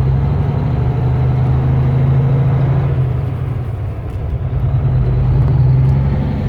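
Volvo VNL truck's diesel engine droning steadily while driving, easing off about halfway through and then pulling harder again.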